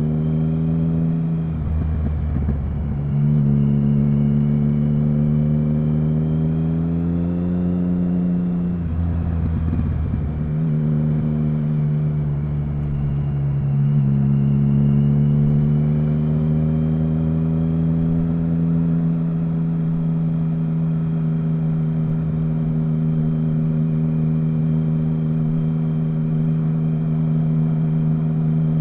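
Triumph Speed Triple 1050's 1050 cc inline-three engine running under a ride. The revs drop and climb again twice in the first half, as at gear changes, then hold steady.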